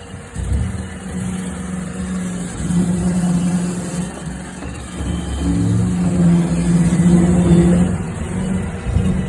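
Roomba robot vacuum running inside sheet-metal ductwork: a steady motor hum that grows and fades in loudness as it works along the duct.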